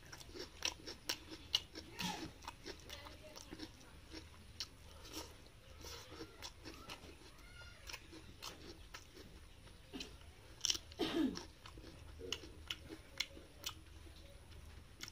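Close-up chewing and lip-smacking of someone eating rice and pork curry by hand, with many wet mouth clicks throughout. Twice, about two seconds in and again around eleven seconds, there is a short low sliding vocal sound.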